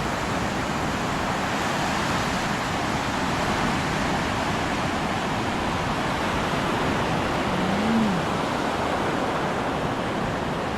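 Steady rushing hiss of heavy tropical-storm rain, even throughout, with a brief faint rising-and-falling tone about eight seconds in.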